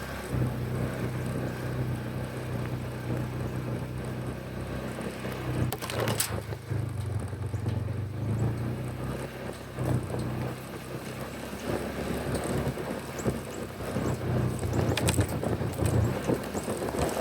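A vehicle engine running steadily with a low, even hum, with brief clicks or knocks about six seconds in and again near fifteen seconds.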